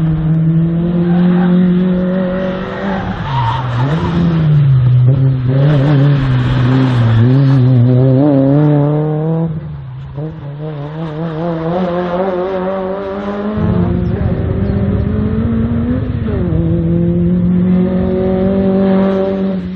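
A race car's engine revving hard and easing off again and again as it is driven through a slalom course, the revs dropping about ten seconds in before climbing once more.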